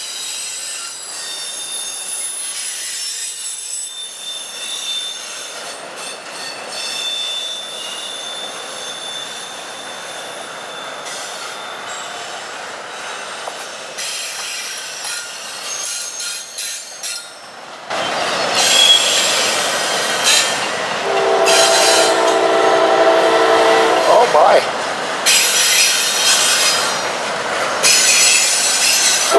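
Double-stack intermodal freight cars rolling past, wheels squealing on the rails. About two-thirds of the way through the passing gets louder, and a diesel locomotive horn blows a long chord for about three seconds.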